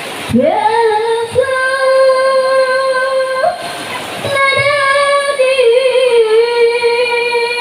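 A high voice singing long drawn-out notes into a microphone: one note scoops up and is held for about three seconds, then after a brief noisy breath a second long note wavers in pitch midway before settling.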